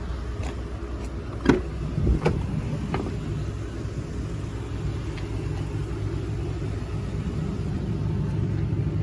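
Ford F-550's 6.8-litre gasoline V10 idling steadily, a low even rumble, heard from inside the cab. A few short knocks from handling in the cab come in the first three seconds.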